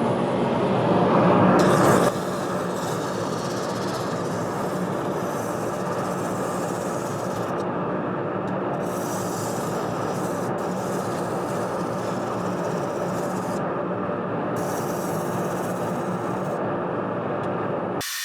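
Small sander spinning on a wood lathe's spindle with a hickory spatula pressed against it: a steady machine hum under the scratch of abrasive on wood, louder for the first couple of seconds.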